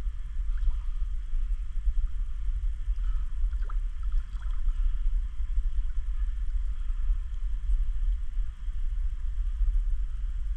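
Wind rumbling on the microphone outdoors, over a faint steady hiss, with a few faint short chirps.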